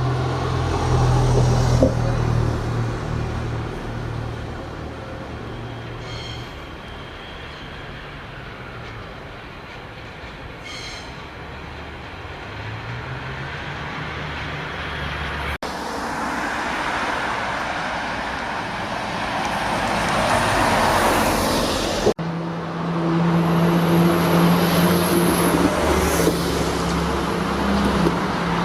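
Buses and trains running at stations, heard across three abrupt cuts. First a low engine hum, then louder passing-vehicle noise, then a steady pitched engine drone.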